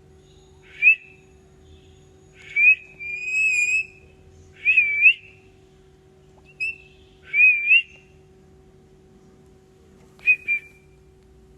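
Green parrot whistling: a string of short whistled calls, some held on one note and some wavering up and down, then a pause and a quick double whistle near the end.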